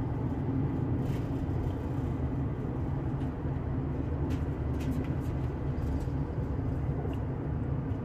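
Steady low rumble of a car's engine and tyres heard inside the cabin while driving, with a few faint ticks.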